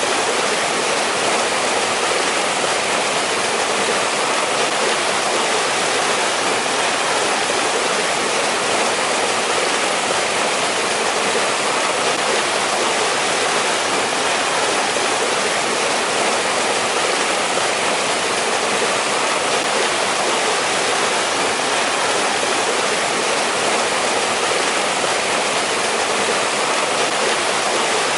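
Mountain valley stream rushing and splashing over rocks, a steady, even wash of water sound.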